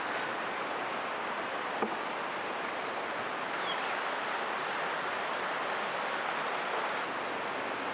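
Steady rush of a flowing river, with a few faint high bird chirps.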